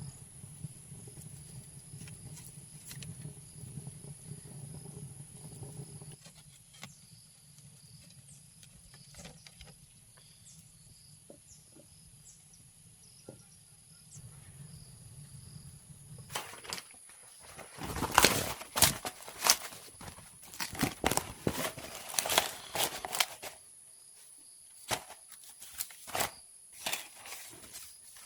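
A low steady hum, then, past the middle, a quick irregular run of sharp knocks and rustling that tails off into a few scattered knocks, over a faint steady high-pitched tone.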